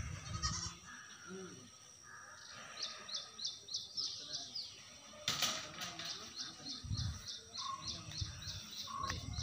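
A small bird repeating a short, high chirp about four times a second, starting a few seconds in and breaking off briefly around the middle, with a brief noise near the midpoint.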